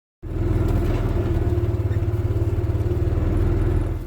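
An engine running steadily with a fast, even pulse, cutting in abruptly just after the start and dropping away near the end.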